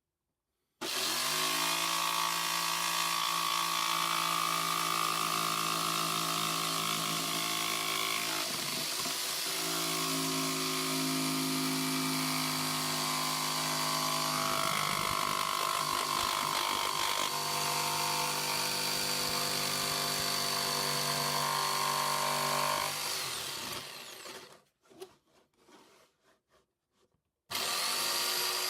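Ryobi 500 W Pro Stroke jigsaw switched on and cutting through wood, its motor running steadily with the cut's load shifting the sound. About 23 seconds in it is switched off and winds down, then it is run again briefly near the end.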